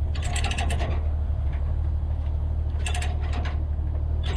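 Steady low idle of a diesel engine, with three short clusters of metal clicking and clanking from load-securing chains and binders being handled, about a second in, about three seconds in, and at the end.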